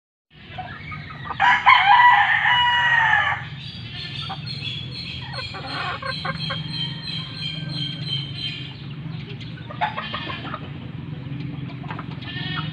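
A gamecock crows once loudly, about a second and a half in, for about two seconds. Shorter, quieter fowl calls follow later, over a steady low hum.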